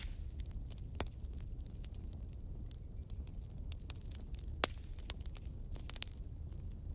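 Campfire crackling, with irregular snaps and a couple of louder pops over a low steady rumble of the burning.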